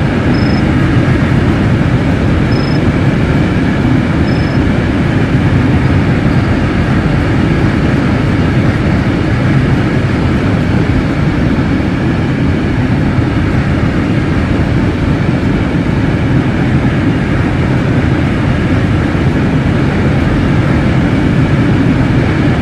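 Manifest freight train rolling past: a steady, loud rumble of steel wheels on rail, with a few short high squeaks in the first five seconds.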